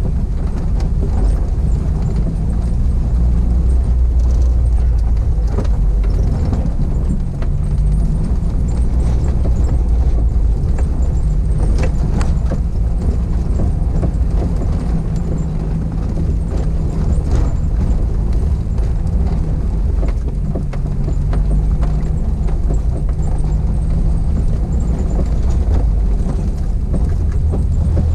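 Car driving, heard from inside the cabin: the engine running steadily under a constant low rumble of road noise, with scattered short knocks and rattles.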